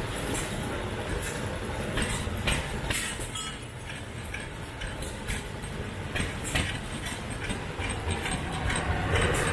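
1910 Fielding and Platt single-cylinder oil engine running just after starting, a steady low chugging with sharp clicks about twice a second. It is nice and warm and started easily.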